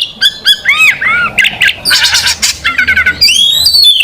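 Oriental magpie-robin (kacer) singing loudly: a rapid, varied run of whistled notes, arching glides and quick rattling trills, with a long rising sweep near the end.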